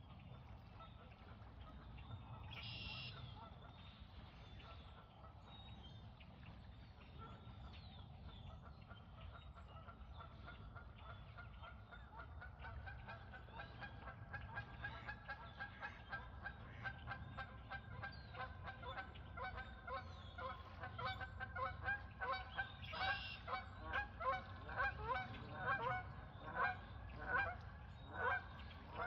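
Geese honking, faint and scattered at first, then louder and quicker, running to about two honks a second in the last third.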